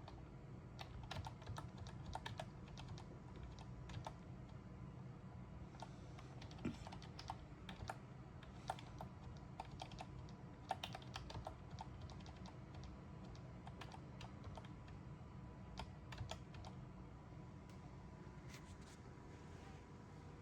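Irregular clicks of computer keys being typed, over a faint steady low hum.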